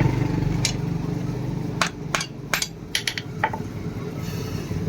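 Hand hammer striking steel leaf-spring stock on an anvil: about eight irregular blows with a metallic ring, bunched in the middle, over a steady low hum.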